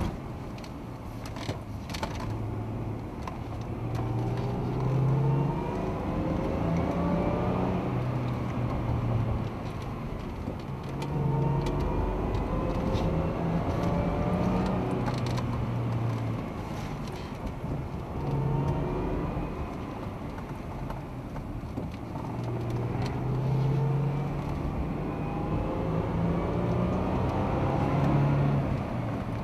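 Car engine accelerating hard, heard from inside the cabin: its note climbs steadily for a few seconds, drops at each gear change and climbs again, several times over, with a deep drone underneath.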